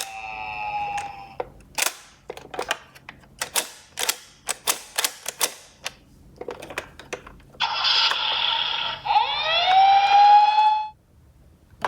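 Electronic siren of a toy emergency-vehicle minicar fading out, followed by a run of sharp clicks and knocks. About eight seconds in, another electronic toy siren starts, its pitch gliding up and then holding steady before it cuts off.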